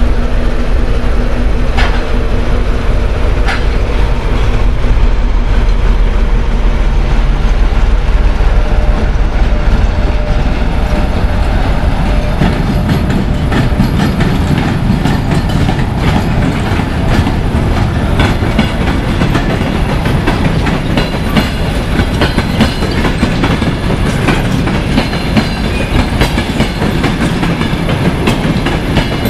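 An EP1M electric locomotive hauling a passenger train rolls past, followed by its passenger coaches. The wheels rumble and clack over the rail joints, and the clacking grows denser about halfway through as the coaches pass.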